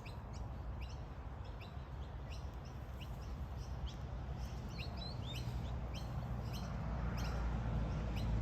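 Birds chirping: many short, high chirps that slide downward, scattered irregularly, over a low steady rumble that grows a little louder near the end.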